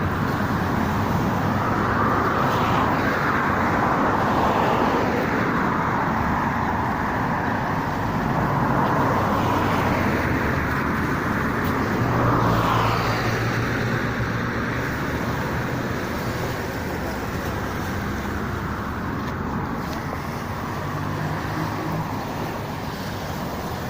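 Road traffic running steadily, with individual cars passing every few seconds and a passing engine hum about twelve seconds in.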